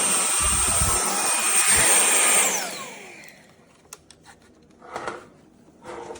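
Vacuum cleaner motor running with a high whine, switched off about two and a half seconds in and winding down, followed by a few light knocks and clicks.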